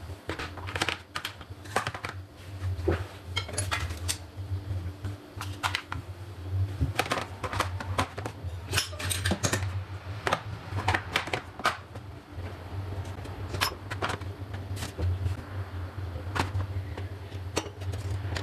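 Kitchen utensils being handled and set down into a drawer organizer: irregular clicks, taps and clinks of hard objects, over a steady low hum.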